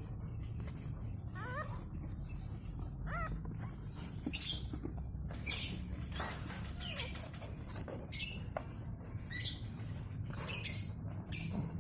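Newborn puppies squeaking: a few short, high cries that fall in pitch, among repeated short hissy rustles, over a steady low hum.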